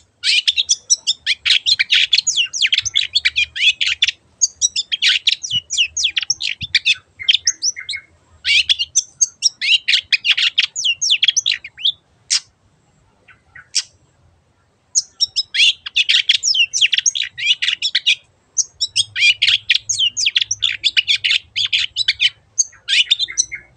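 Long-tailed shrike (cendet) singing a fast, scratchy, high-pitched chatter in long rapid phrases of several seconds each. Past the middle there is a pause of about three seconds with only a few single notes.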